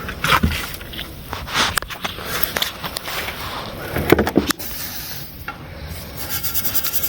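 Irregular scraping and knocking of hand tools on a Ford flathead V8 8BA block while rust and scale are cleaned out of its coolant passages, with a sharper knock about four seconds in.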